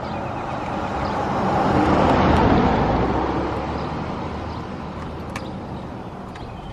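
A car passing by: its road and engine noise swells to a peak about two seconds in, then fades, over a steady low engine hum.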